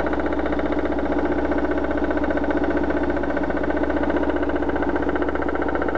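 BMW M43 inline four-cylinder engine running at a steady speed with a fast, even pulsing noise through it. This is an unexplained engine noise that the owner cannot place and would rather identify before opening the engine.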